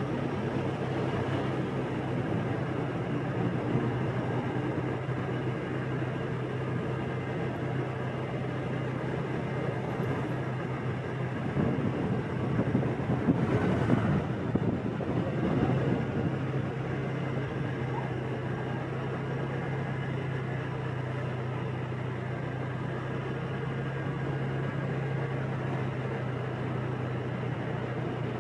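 Motorbike engine running steadily at riding speed, with road and traffic noise; a louder, busier stretch about halfway through.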